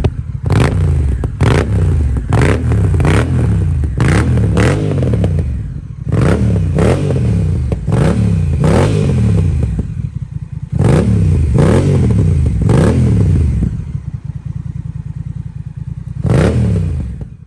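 Honda Rebel 1100's parallel-twin engine through an aftermarket Swica four-outlet exhaust, revved in runs of quick throttle blips that each rise and fall in pitch. Near the end it settles to a pulsing idle, then gives one last rev.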